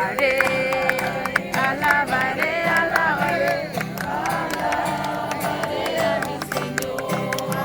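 Group singing of a worship song with guitar accompaniment, with a steady beat of sharp clicks that may be hand claps.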